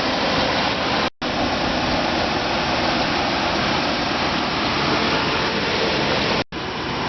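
Steady rushing noise of the 1997 Chevrolet Suburban's engine running at idle, heard close up at the front of the truck. It cuts out for a split second twice: about a second in and near the end.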